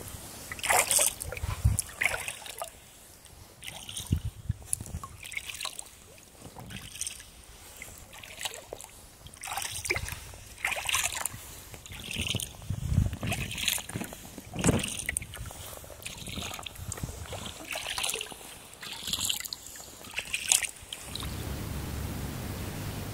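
Kayak paddle blades dipping into and pulling through water in a steady stroke, a splash and drip about once a second. Near the end the splashing stops and a steady hiss takes over.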